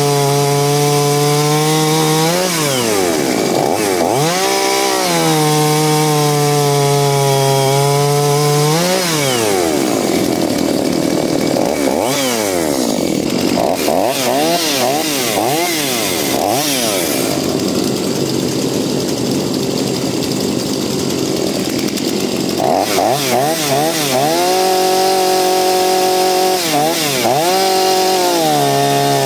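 Two-stroke petrol chainsaw running at full throttle, its revs falling and climbing back twice, then dragging down and wavering for a long stretch as it cuts through wood, before returning to a steady high scream near the end.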